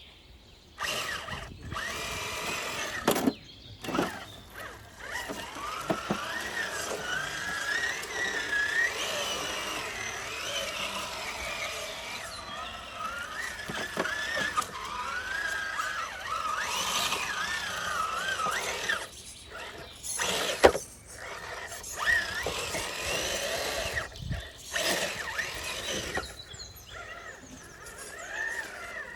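Whine of an RC rock crawler's electric motor and geared drivetrain, its pitch rising and falling as the throttle changes, with occasional knocks as the rig works over rocks.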